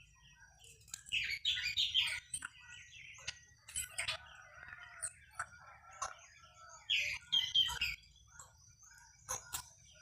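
Several birds chirping and calling in short, overlapping phrases, loudest in a cluster about a second in and again around seven seconds.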